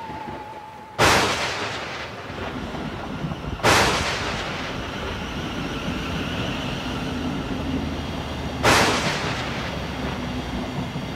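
Electric multiple-unit train, a Class 707, running past with a steady low rumble. Three sudden loud booms break over it, about a second in, near four seconds and near nine seconds, each fading away over a few seconds.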